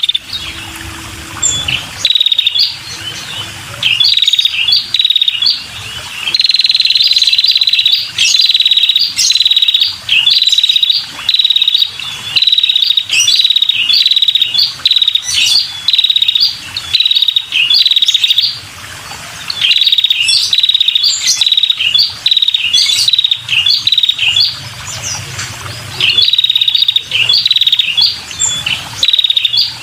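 Female red-headed prenjak singing: fast runs of high trilled notes, repeated again and again with short pauses between them. This is the song used as a lure to draw in male prenjak.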